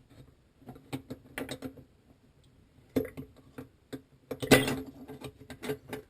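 Hook tool clicking and scraping against the circulation pump impeller in a Miele dishwasher's sump as it is twisted back and forth to free an impeller stuck from disuse. Irregular clicks, with a louder clatter about four and a half seconds in.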